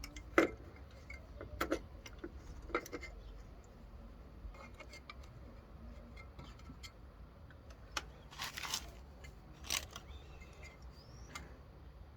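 Scattered light metallic clicks and clinks of hand tools and small parts being handled during work on a mower carburettor, with a short rustling noise about eight seconds in.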